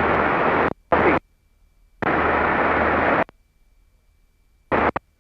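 Aircraft radio static in the headset audio: four bursts of hiss as the squelch opens and closes, each cutting off sharply, with near silence between them.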